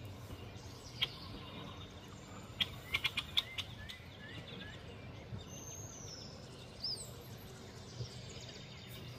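Wild songbirds chirping and calling over a low steady background rumble. There is a quick cluster of sharp chip notes about three seconds in and a high, falling whistle near the middle.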